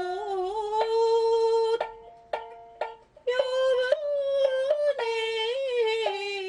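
Japanese folk-song-style music on a mini shamisen arrangement: a held melody line wavers with vibrato and slides between notes. A short break about two seconds in carries a few sharp plucked shamisen notes before the sustained melody resumes.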